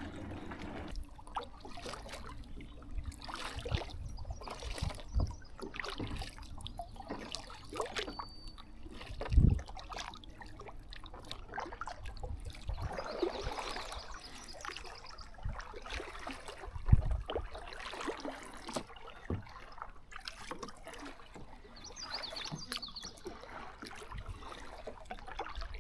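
Kayak paddling: water trickling and splashing off the paddle blades in irregular small splashes, with two dull thumps about nine and seventeen seconds in.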